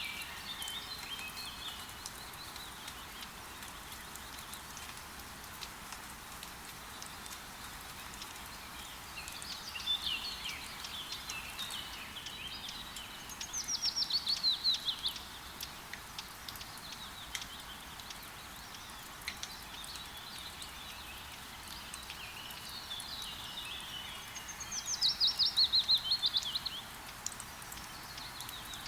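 Steady rain, a soft hiss with scattered drop ticks. A songbird sings two phrases about ten seconds apart, each a burst of twittering that ends in a loud, rapid trill falling in pitch.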